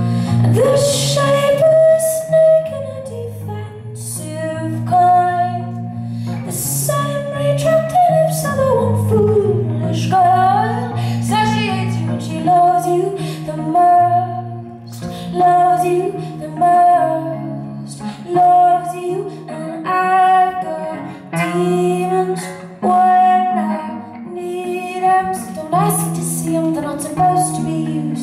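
A woman singing live, with held and gliding notes, over a plucked guitar accompaniment.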